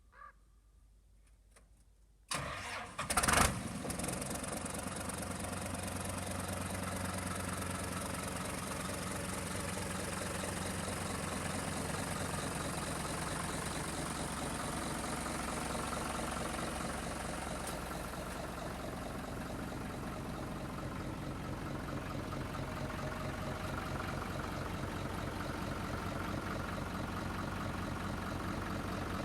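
Kubota M-120 tractor's diesel engine cranked and starting about two seconds in, then idling steadily.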